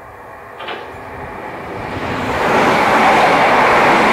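A Southern electric multiple unit coming into the station, its wheel-on-rail and running noise rising steadily from about a second in to loud near the end, with a short sharp click near the start.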